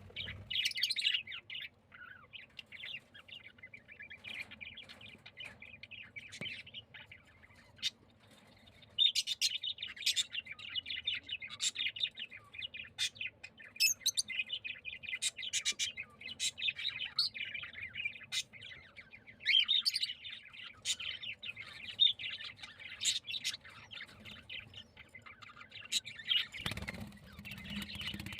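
Many small cage birds chirping and tweeting at once, a busy steady chatter with quick sharp high chirps over it. A brief low rumble near the end.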